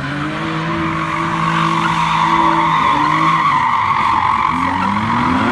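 A car's engine held at high revs while its tyres spin and screech continuously. The revs dip about three seconds in and climb again near the end.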